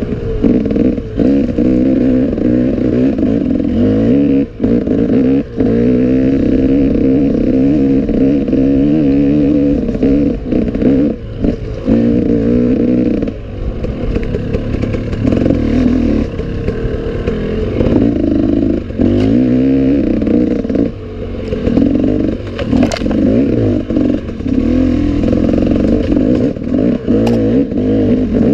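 Enduro motorcycle engine under way on a rough trail, its revs rising and falling with the throttle and dropping off briefly again and again. Clatter and sharp knocks from the bike over rough ground, with a few louder cracks in the last few seconds.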